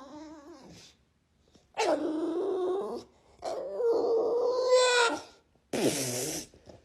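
A dog vocalizing in a series of drawn-out, wavering calls of about a second each, separated by short pauses; the last is louder and falls in pitch.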